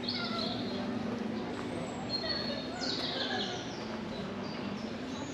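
Wild birds singing, with a few short high chirps and a falling whistled sweep about three seconds in, over a steady low hum.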